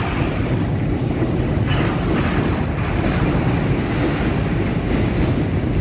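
Train crossing a railway bridge overhead: a steady, continuous rumble of the wheels on the track.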